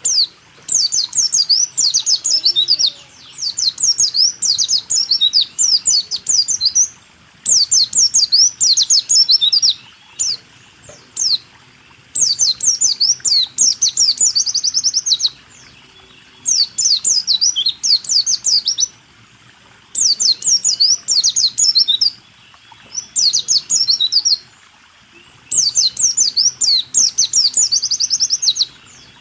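White-eye (pleci) singing in the rapid 'rool tembak' style. It sings phrases of quick, high chirping notes, some ending in a fast trill, each lasting a few seconds, with short pauses between them.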